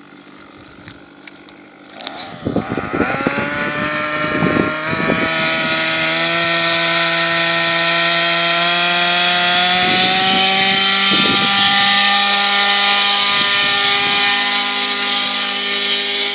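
Zenoah 26cc two-stroke gasoline engine of a T-Rex 700 Pro RC helicopter picking up about two seconds in. Its pitch rises steadily for several seconds and then holds level at a loud, steady high run.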